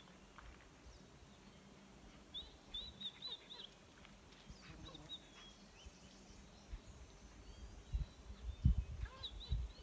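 A small bird chirping faintly outdoors: a quick run of five short high notes about two and a half seconds in, with a few more later and near the end. Low rumbling thumps near the end, over a faint steady hiss.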